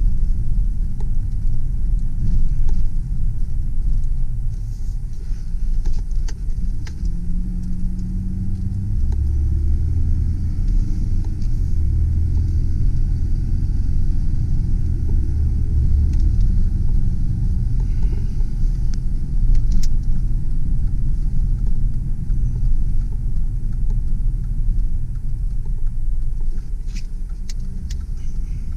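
Inside the cab of a 2001 Mazda B4000 pickup on the move: its 4.0-litre V6 and the road make a steady low rumble. The engine note grows louder for several seconds in the middle as the truck pulls, and a few light clicks come through now and then.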